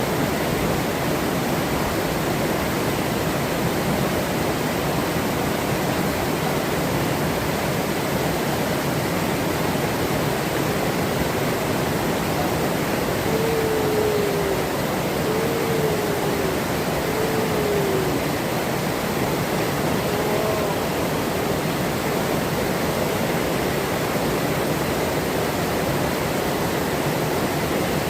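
Forest river running steadily, a constant rush of flowing water. About halfway through, three short, low, slightly falling calls sound in quick succession, then one fainter call.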